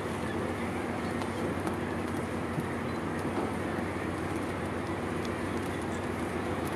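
Dense, continuous din of a thick-billed murre breeding colony, thousands of birds calling at once, over a steady low hum.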